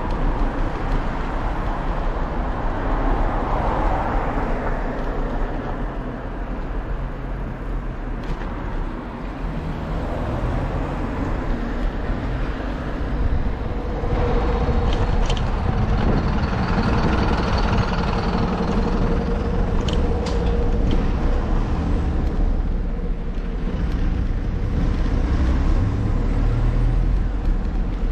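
Wind rumbling on the microphone and road noise during a bicycle ride, with a steady hum that comes in about halfway through and lasts several seconds, like a passing motor vehicle.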